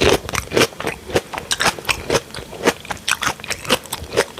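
Close-miked eating: chewing with crisp crunches and wet mouth clicks, several a second in an uneven rhythm.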